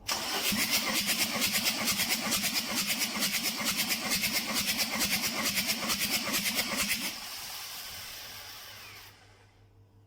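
Mercedes OM611 2.2 CDI four-cylinder diesel turned over on the starter, with an even pulsing of about six beats a second. It stops abruptly about seven seconds in, and a quieter sound dies away over the next two seconds.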